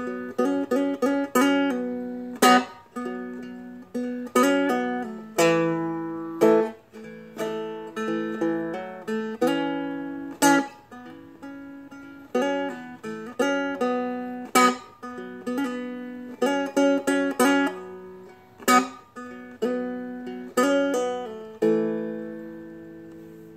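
Seagull Merlin, a four-string fretted dulcimer-style instrument, finger-picked in a slow melody of single notes and chords that each ring out. The last chord is left to fade away near the end.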